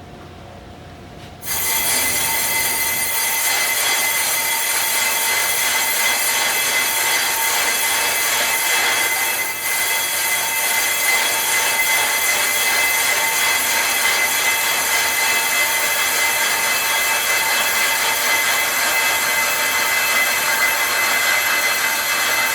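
Brake disc being machined on a brake lathe: a steady, shrill metallic screech of the cutting tool on the rotor that starts suddenly about a second and a half in and holds unchanged.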